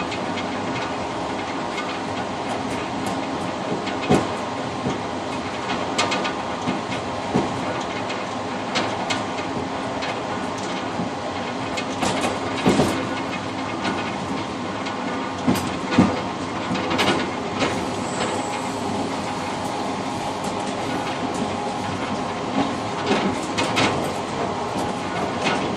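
Passenger train running along the line, heard from the rear car's cab vestibule: a steady rumble of wheels and car body, with irregular sharp clacks as the wheels pass rail joints.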